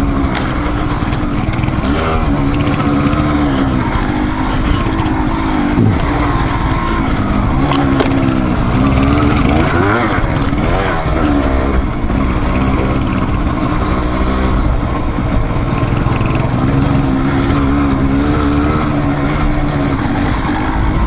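Dual-sport motorcycle engine running while trail riding, its pitch rising and falling with the throttle.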